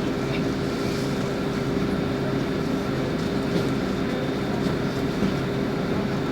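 LiAZ 5292.65 city bus on the move, heard from inside the passenger cabin: a steady engine drone with road noise, holding an even pitch and loudness.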